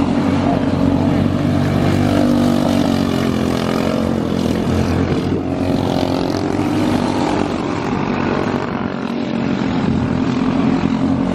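Box stock outlaw dirt karts' small engines running hard on track during a heat race.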